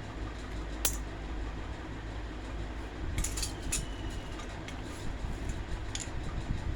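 Steady low hum of a table fan's motor running, with a few sharp clicks about a second in, a cluster around three and a half seconds in, and another near the end.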